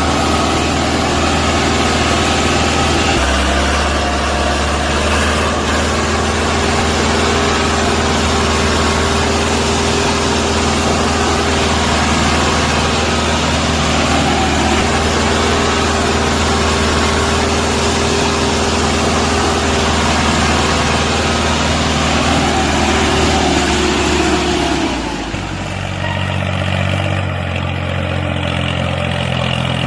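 Engine running steadily, with a change in its sound about 3 seconds in; about 25 seconds in it drops to a quieter, duller note.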